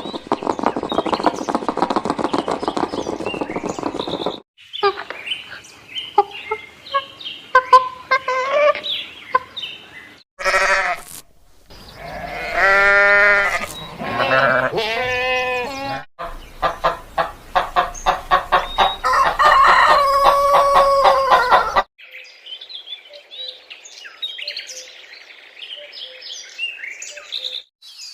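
Chickens in a run of short clips cut one after another: hens clucking and roosters crowing.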